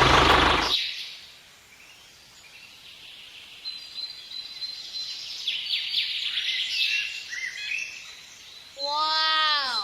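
A loud engine-like sound fades out in the first second. Then small birds chirp in short high calls for several seconds. Near the end a brief pitched tone rises and falls.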